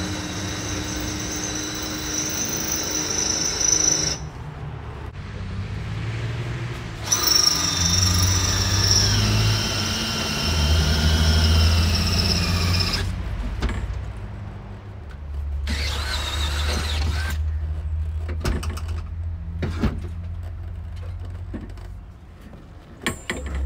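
Power drill boring bolt holes for a truck cab hinge, in three runs with pauses between; the bit squeals with a high whine that wavers in the longest run, over a low hum.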